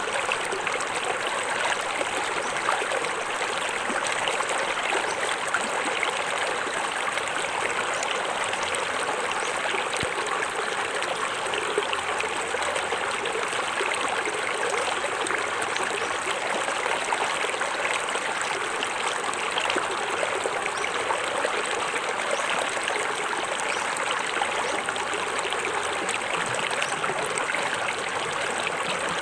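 Small forest waterfall: water falling and splashing steadily into a stream, an even rushing, trickling sound with no pauses.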